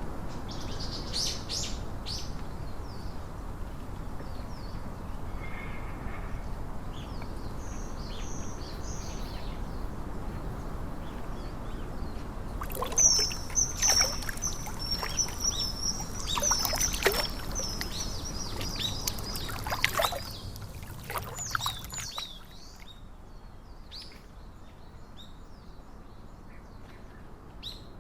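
Birds chirping and trilling over a steady outdoor rumble, with a stretch of rustling and knocking in the middle. The rumble drops away near the end.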